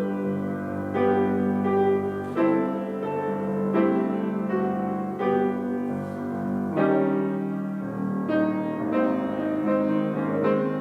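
Slow, gentle piano music, with new chords struck about every one and a half seconds and left to ring between them.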